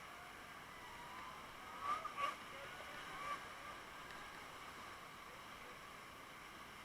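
Steady rush of river water, with faint short calls or voices rising out of it about two and three seconds in.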